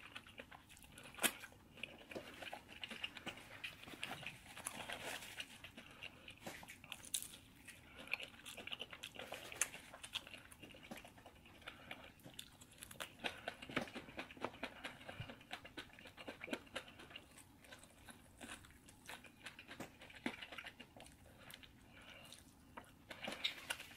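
Close-up eating sounds: a person biting into and chewing a sauce-coated fried chicken wing. The mouth sounds come as many short clicks at irregular intervals.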